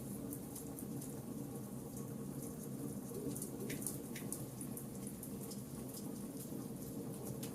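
Charcoal campfire burning with steady fine crackling and a low rush beneath, and two sharper pops a little past halfway.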